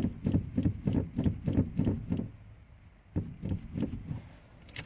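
Car engine being cranked on the starter without firing, in an even chug of about five beats a second: a hard start. The cranking stops a little after two seconds in, and a short second burst of cranking comes about a second later.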